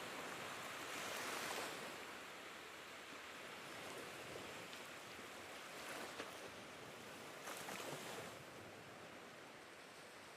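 Sea water washing, with some wind: a soft, even wash of noise that swells a little a few times.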